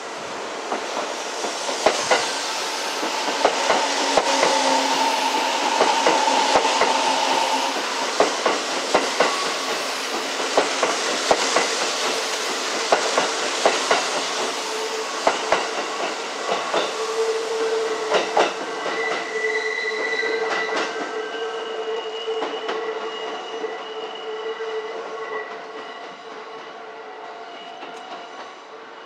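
Kintetsu Shima Line electric train running through, its wheels clacking over the rail joints, with steady whining tones on top. It is loudest in the first half and fades away toward the end.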